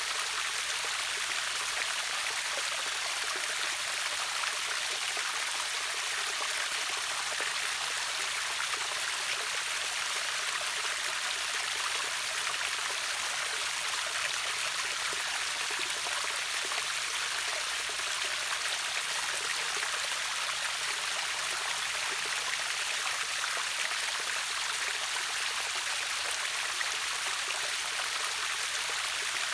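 Water rushing and splashing over a small waterfall into a river: a steady, even hiss, mostly high-pitched with little low rumble.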